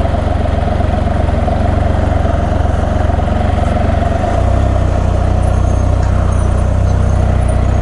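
A Can-Am Spyder three-wheeled motorcycle's engine running steadily while it is ridden. About halfway through, the low engine note steps up and gets louder.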